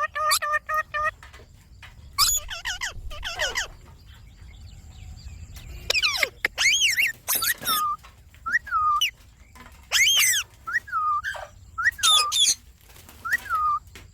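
Indian ringneck parakeets calling: a string of short squawks and chirps that sweep up and down in pitch, coming in bursts with short gaps between them.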